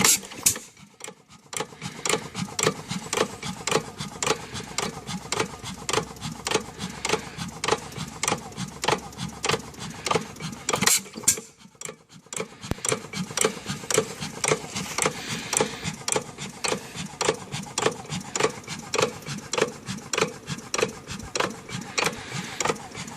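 Monitor 5 hp hit-and-miss gas engine running, with a regular mechanical clatter of about two or three clicks a second. The sound drops out briefly about halfway through.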